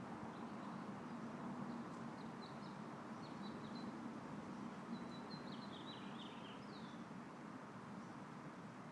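Steady soft wind noise, with a small songbird chirping a run of quick, high, falling notes through the middle, the busiest run coming about five to six and a half seconds in.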